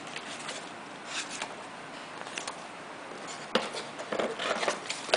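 Handling noise: tablet accessories and their packaging being rubbed and moved about, a few short scrapes and rustles, busiest from about three and a half seconds in.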